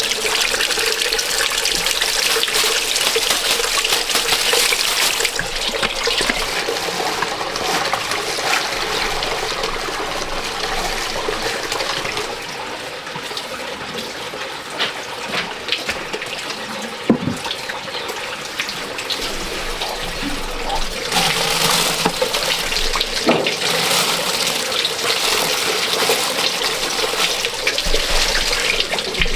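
Water running and splashing, with a few small knocks; the flow is heavier at the start and again in the last third, lighter in between.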